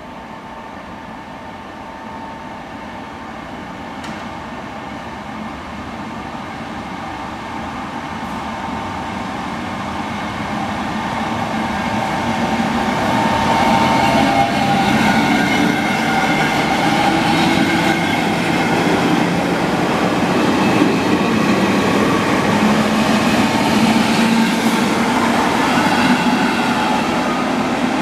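A train approaching and passing, growing louder over the first half and then staying loud, with a steady whine over the rumble of the wheels.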